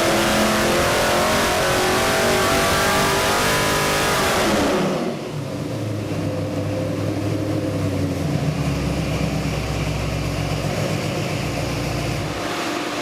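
408 cubic-inch Ford Windsor stroker V8 fed by Inglese 48 mm Weber carburetors, running hard on an engine dyno at high revs. About four and a half seconds in the revs drop away, and the engine settles to a low, steady idle.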